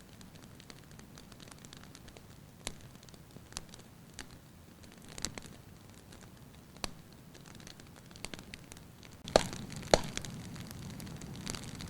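Firewood burning in a fireplace, crackling lightly: scattered sharp snaps and pops over a low steady hiss. Near the end the hiss grows louder and two louder pops come a little over half a second apart.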